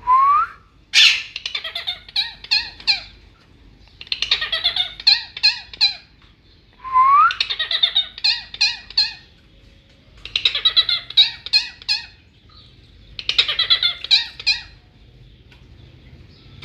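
Pet parrots squabbling: five bouts of rapid, pulsed squawking chatter, each about two seconds long, a couple of them opening with a short rising whistle.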